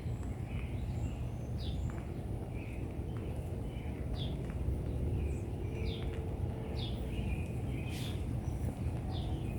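A bird calling repeatedly, a short falling chirp about five times, over steady low background noise during light rain.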